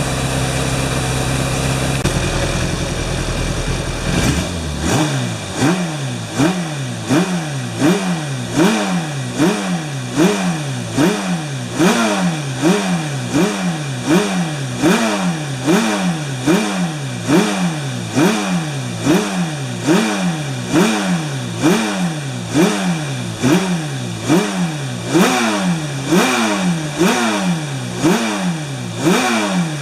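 GS1207 motorcycle engine idling steadily, then from about four seconds in revved in quick, regular throttle blips. There are about one and a half blips a second, each a short rise and fall in engine pitch.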